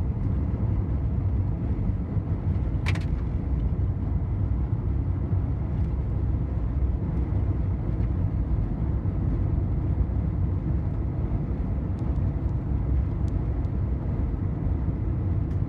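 Car tyres running over a rough gravel road, heard inside the cabin as a steady low rumble, with a sharp click about three seconds in and a few faint ticks.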